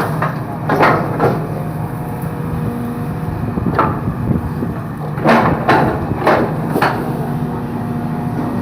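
Excavator's diesel engine running steadily while bamboo stalks crack and splinter under the machine, in about seven sharp snaps: two about a second in, one near the middle, and a cluster of four between five and seven seconds.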